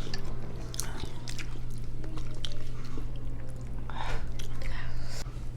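Close-miked chewing and wet mouth clicks of someone eating, with a steady low hum underneath.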